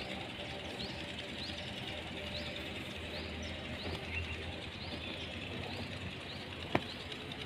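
A small bird chirping over and over, short high upturned notes about twice a second, over a steady low background hum, with one sharp click near the end.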